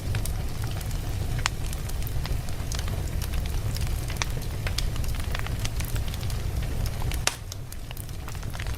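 Wood fire burning in a fireplace: a steady low rumble of flames with frequent, irregular sharp pops and crackles from the burning logs. A louder crack comes about seven seconds in, after which the low rumble briefly drops.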